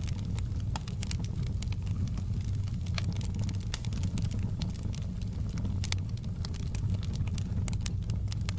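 Wood fire crackling: irregular sharp pops and snaps, several a second, over a steady low rumble from the burning logs.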